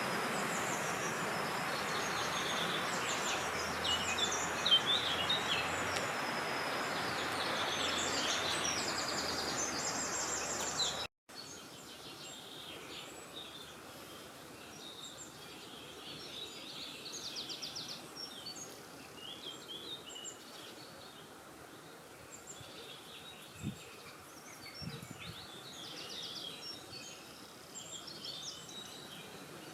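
Small birds chirping and singing over steady wind noise. About a third of the way in the wind cuts off abruptly and the birdsong goes on, quieter, over a faint hush.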